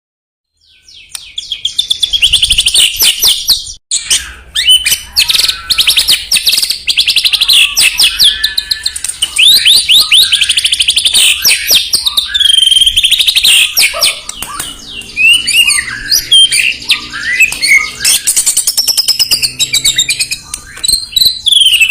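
White-rumped shama (murai batu) singing loudly: a long, varied run of fast trills, rapid rattling notes and whistled phrases, fading in about a second in.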